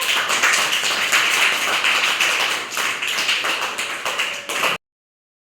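A group of children clapping together, a dense run of claps that cuts off suddenly near the end.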